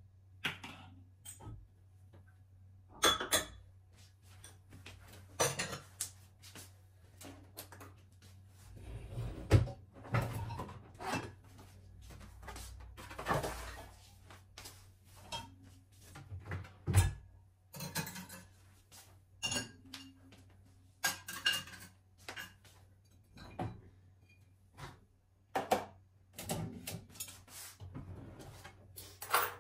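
Dishes and cutlery being handled: irregular clinks, knocks and clatters every second or so, some ringing briefly. A low steady hum runs underneath.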